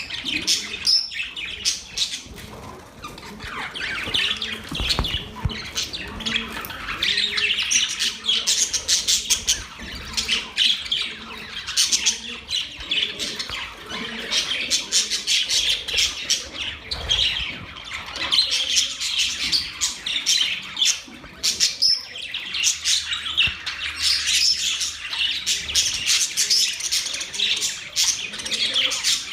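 Pet budgerigars chirping and chattering continuously in quick, high-pitched runs of chirps.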